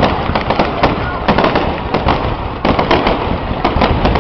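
Fireworks going off in a rapid, irregular string of loud bangs and crackles, several reports a second.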